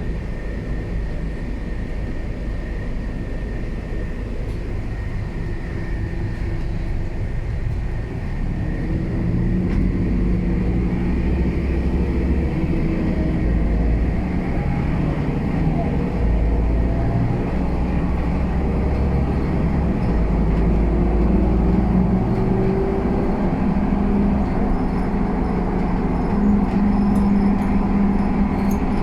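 Scania K320UA bus engine running under way, getting louder about eight seconds in, its note rising twice as the bus accelerates.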